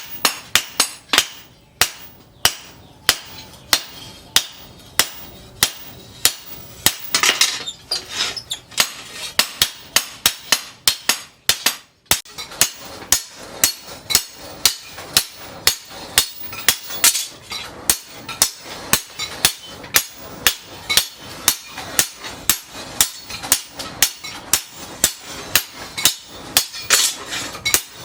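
Hand hammer striking the steel of a tractor disc plough on an anvil, forging it into a machete blade: a steady run of sharp metallic blows, about two a second, quickening to about three a second after a short break near the middle.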